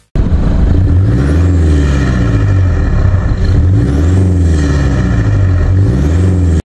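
Toyota Hilux engine revved up and let back down several times, its pitch rising and falling with each blip of the throttle.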